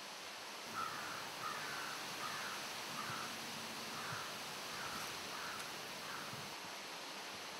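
A bird calling in a series of about eight short calls, roughly one every two-thirds of a second, stopping about six seconds in, over a steady background hiss.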